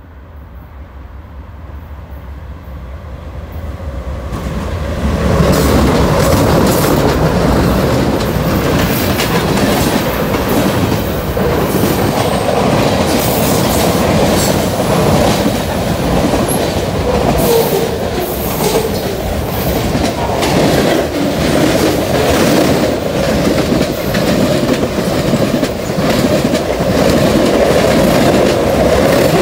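Norfolk Southern mixed freight train coming on fast and passing close by. The sound of its three diesel locomotives swells over the first five seconds, then freight cars roll past at speed in a loud steady din, with quick clicks of wheels over the rail joints.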